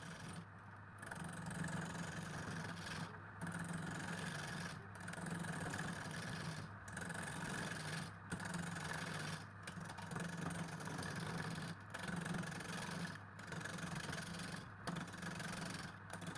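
A motor-driven machine running steadily with a hum, its sound dropping briefly every second or two in a regular pattern.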